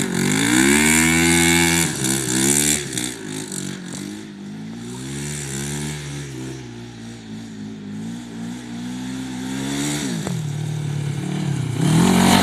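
Kawasaki GPZ 500 parallel-twin engine fitted in a quad, being revved. Its pitch rises quickly and holds for about two seconds, then comes a few short blips and slower rises and falls. It drops back about ten seconds in and climbs again near the end.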